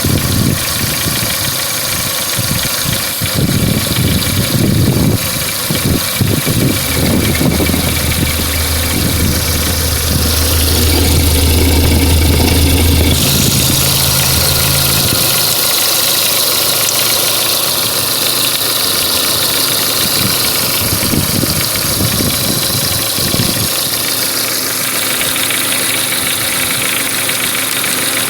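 Renault Megane 2 1.6 petrol engine idling with a knock, which the owner puts down to the exhaust camshaft's damper or phaser. The character of the running changes about halfway through.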